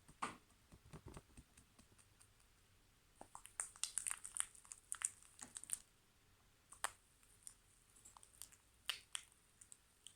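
Fluffy slime being kneaded and stretched by hand, giving faint, irregular sticky clicks and crackles, busiest in the middle.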